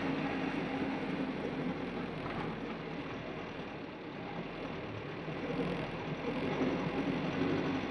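Mitsubishi Canter light truck's diesel engine running steadily.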